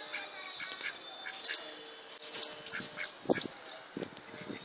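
Birds chirping in short, high calls repeated about twice a second, with a few scuffs or crunches in the last second or so.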